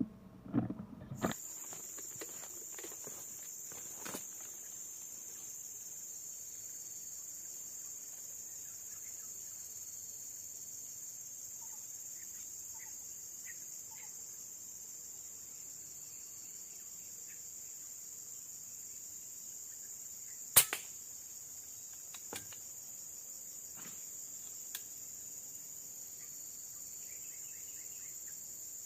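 Steady high-pitched insect chorus, likely cicadas, droning without a break, with a few faint chirps under it. A sharp single click stands out about two-thirds of the way through, with smaller clicks and knocks at the start and a couple more later.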